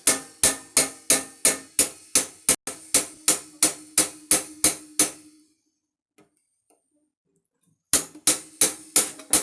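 Hammer blows on a tin can, punching holes in it: a steady run of about fifteen strikes at roughly three a second, each with a short metallic ring, then a pause and another quick run of about five strikes near the end.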